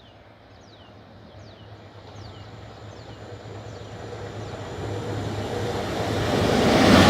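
An approaching train, its rumble growing steadily louder and at its loudest near the end as it draws level. Short falling whistles repeat about once a second through the first few seconds.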